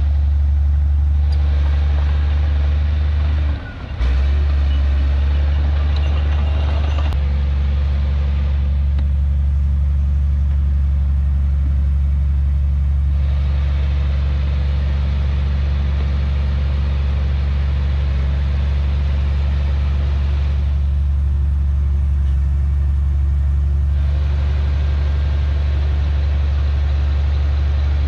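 Heavy diesel engine of earthmoving machinery running steadily, a deep drone with a hiss above it, dropping out for a moment about four seconds in.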